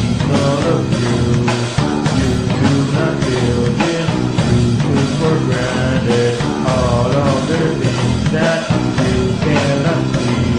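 Loud rock music with distorted guitar, bass and drums at a steady beat, and a wavering sung or lead melody line.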